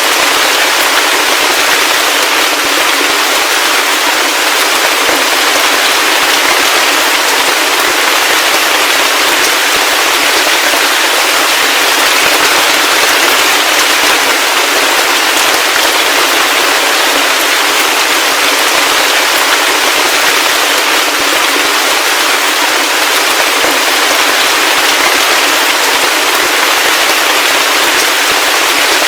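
Heavy rain falling steadily: a dense, even hiss made of countless crackling droplet impacts, with little bass.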